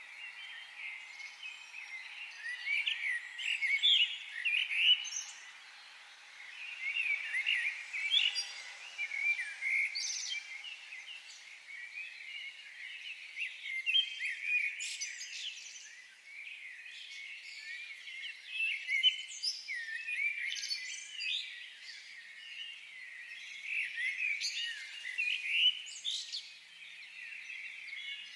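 A chorus of small forest birds chirping and singing, with many short, quick notes overlapping one another.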